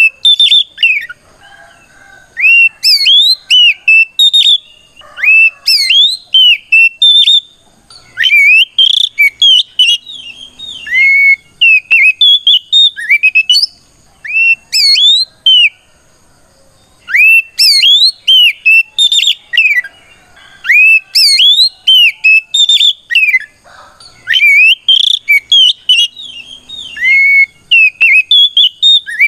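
Oriental magpie-robin (kacer) singing its loud fighting song: rapid phrases of clear whistled notes that sweep sharply up and down, repeated in bursts of a few seconds with brief pauses. This is a male calling out a rival, the kind of song used to provoke other magpie-robins into singing back.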